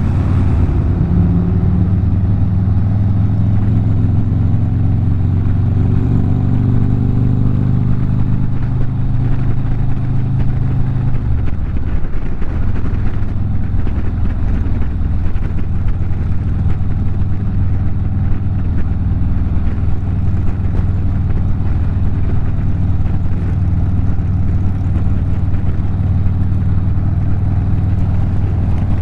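Harley-Davidson motorcycle's V-twin engine running on the road. Its pitch climbs slightly over the first ten seconds, drops suddenly about twelve seconds in, then stays steady.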